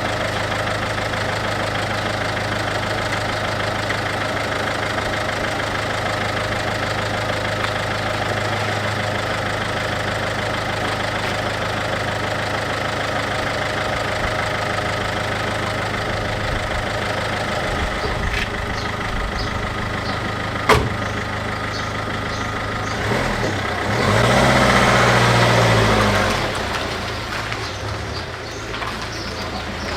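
MINI R56's 1.6 HDi DV6 four-cylinder diesel idling steadily while warming up. There is a single sharp click about two-thirds through, then the engine is briefly revved up and drops back to idle.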